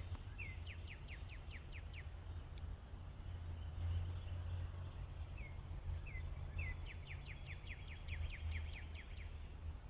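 A songbird singing two phrases, one near the start and one in the second half. Each is a few short slurred notes leading into a fast trill of rapid strokes, about five a second, over a steady low rumble.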